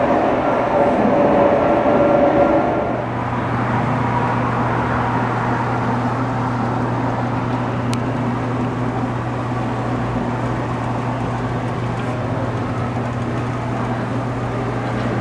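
Train running with a steady low engine drone; a faint whining tone sounds in the first couple of seconds.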